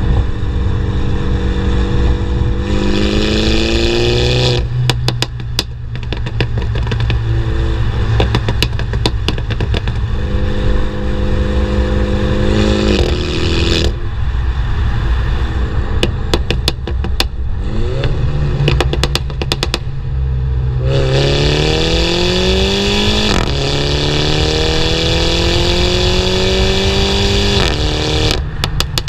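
Mini John Cooper Works turbocharged four-cylinder through a JCW Pro exhaust with the valves open, pulling repeatedly with the pitch rising. Between the pulls, when the throttle is lifted, come bursts of rapid pops and crackles on the overrun.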